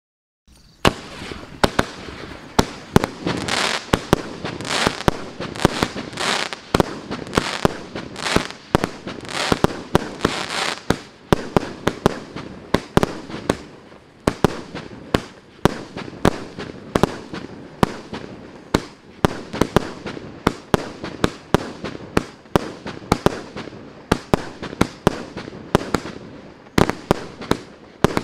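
A 1.2-inch, 120-shot firework battery (cake) starts firing about a second in. Sharp bangs follow in rapid succession, several a second, over a hissing, crackling wash that is strongest in the first ten seconds or so.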